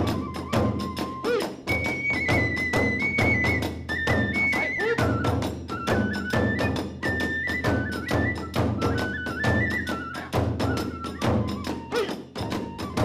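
Kagura hayashi ensemble playing: a bamboo transverse flute carries a stepped melody over quick, steady strokes of drums and clashing hand cymbals.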